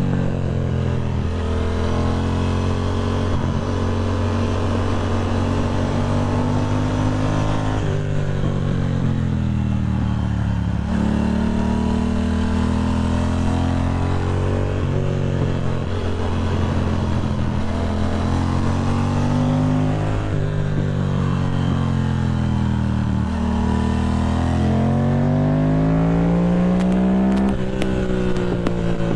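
Motorcycle engine under way, its pitch climbing and then dropping back several times as the rider accelerates and shifts gears.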